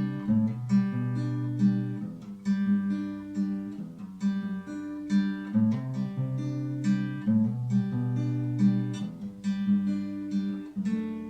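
Guitar playing the chord progression C, Bm, G, F#m(#5) with a D note and a G note left ringing over every chord change and hammer-ons in the bass, giving a dreamy, sustained sound. The progression is played through twice.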